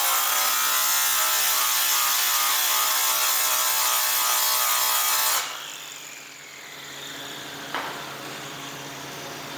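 Power tool running against a metal exhaust pipe, a steady grinding noise that cuts off abruptly about five seconds in, leaving a quieter steady hum and a single click near the end.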